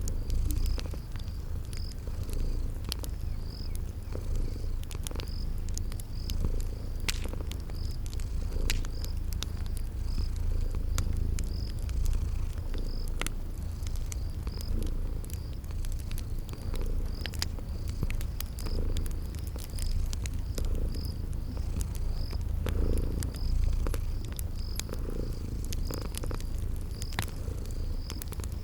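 A cat purring steadily and loudly, with crickets chirping at an even rhythm about once a second and the scattered pops and crackles of a wood fire.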